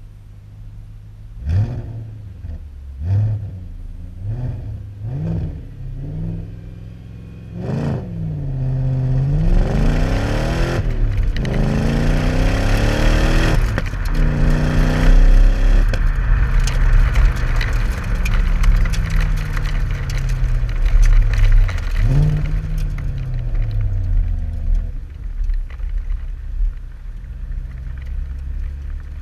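2003 Audi S4's 4.2-litre V8 through an un-resonated Powerflow stainless exhaust, idling and then blipped in a quick string of short revs. It then takes several longer, higher revs that rise and fall, winds down, gets one more blip, and settles back to idle.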